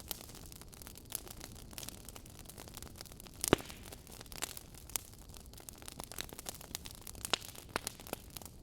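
Wood fire crackling: a steady soft hiss with irregular sharp pops and snaps, the loudest a single pop about three and a half seconds in.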